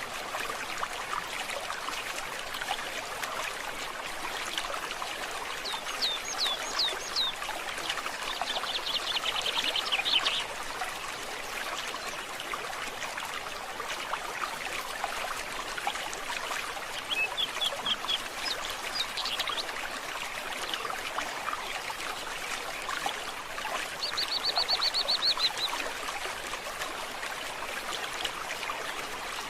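A stream trickling steadily, with birds calling over it: quick downward-sweeping notes then a fast trill about six seconds in, another run of short notes around the middle, and a short high trill near the end.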